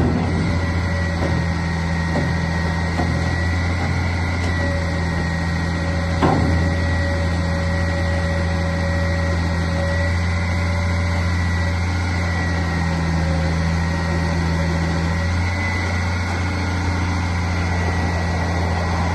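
Garbage truck's engine running steadily at idle, a low hum with a steady high whine over it, and a single knock about six seconds in.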